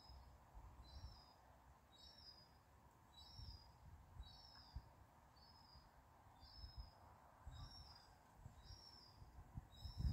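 A small bird repeating a short, high two-part call about once a second, faint.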